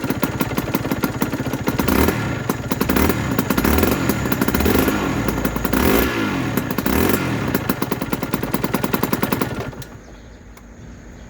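Aprilia RS125's single-cylinder two-stroke engine running with a rapid crackling beat, blipped several times, then switched off about ten seconds in.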